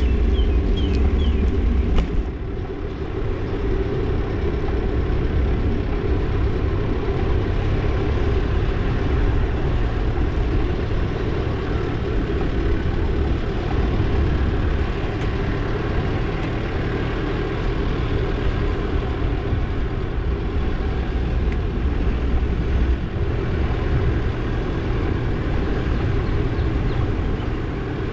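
Steady rumble of wind and road noise from riding along a road, with a brief sharp click about two seconds in.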